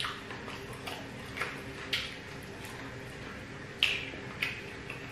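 Wet mouth and lip smacks of people chewing jollof rice eaten by hand, a handful of short sharp smacks at uneven intervals, the loudest near the end, over a low steady hum.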